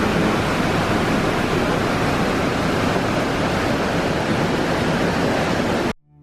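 Steady, loud rush of water, cutting off suddenly near the end.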